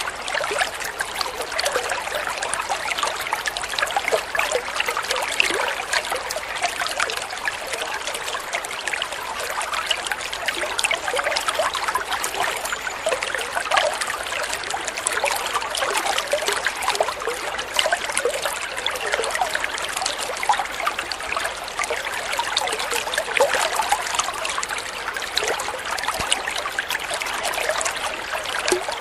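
Flowing water trickling and babbling steadily: a dense, even patter of small splashes, bright rather than deep, with no low rumble.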